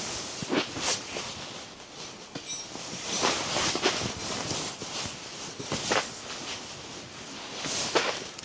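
Wind noise with scattered, irregular clicks and knocks.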